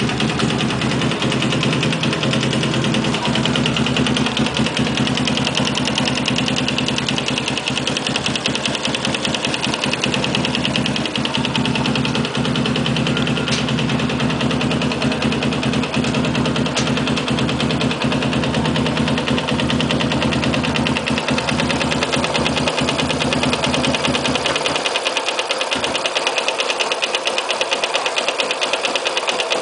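Yamaha Sniper motorcycle's single-cylinder four-stroke engine running steadily with a fast, even knocking.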